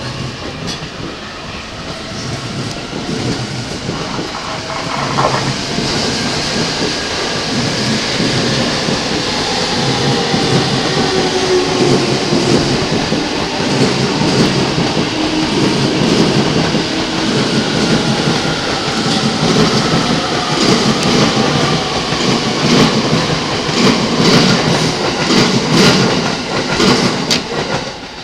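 E233-series and E231-series electric commuter train pulling out and rolling past close by. The sound builds steadily as the cars pass, with a faint motor whine and quick clicks of the wheels over rail joints in the later part. It drops away suddenly near the end as the last car goes by.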